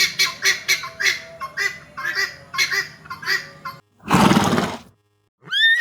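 Guinea fowl giving rapid, harsh repeated calls, about two a second, followed by one loud harsh burst about four seconds in. A horse starts to whinny right at the end.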